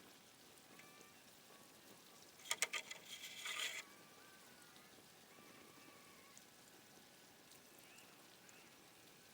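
A short clatter of sharp clicks about two and a half seconds in, then about a second of splashing water, likely a baited crab trap being handled and dropped into the lake. Faint small chirps can be heard throughout.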